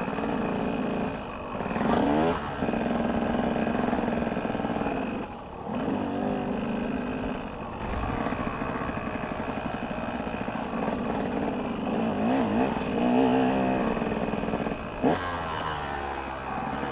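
Several motocross dirt bikes running on the track, their engines revving up and down as riders shift and pass, with sharp rises and falls in pitch about two seconds in and again near the end.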